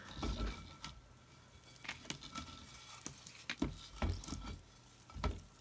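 Hands handling cut rope and craft tools on a work table: about eight scattered light clicks and knocks with rustling between them.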